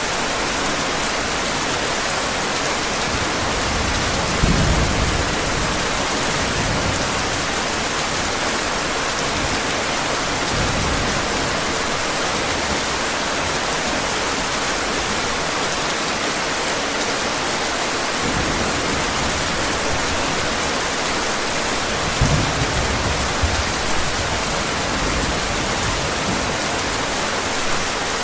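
Heavy rain falling steadily, with low rolls of thunder about four seconds in and again around twenty-two seconds.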